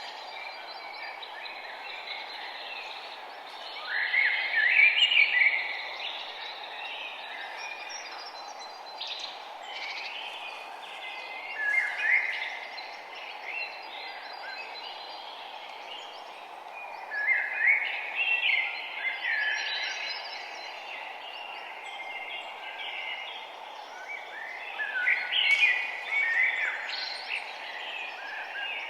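Wild birds singing: a loud song phrase of a couple of seconds comes every six to eight seconds, with softer chirps between, over a steady background noise.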